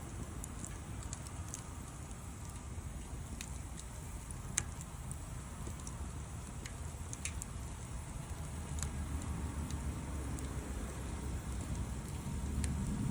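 Wood fire burning, with scattered sharp crackles and pops over a steady low rumble; one louder pop comes about four and a half seconds in.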